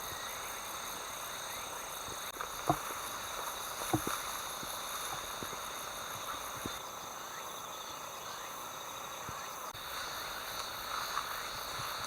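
A steady chorus of insects trilling at several high pitches, with a faster pulsing chirp above them. A couple of sharp clicks or knocks come through, about two and a half seconds in and again about a second later.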